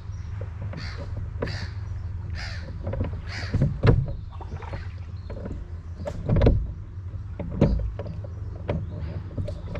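A crow cawing about four times in the first few seconds, over the steady low rumble and occasional dull knocks of a rowing boat on the water.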